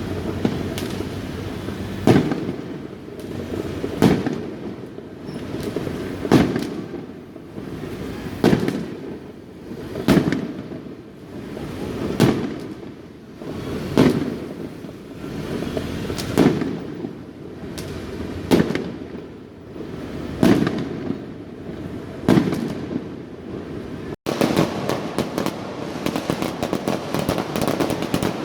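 Fireworks going off in a street: a steady series of loud booms about every two seconds, each trailing off before the next. About three-quarters of the way through the sound changes abruptly to a dense, rapid crackle of firecrackers.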